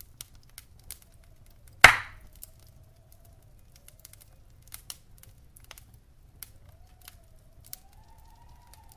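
Wood fire crackling in a stone fireplace: scattered small snaps, with one loud pop about two seconds in. A faint wavering whistle-like tone sits underneath.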